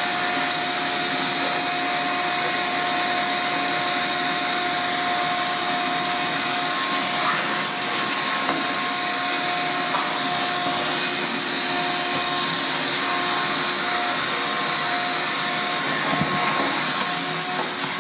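Vacuum cleaner running steadily with an even whine, sucking lint out of the inside of a commercial stack dryer. A few knocks near the end.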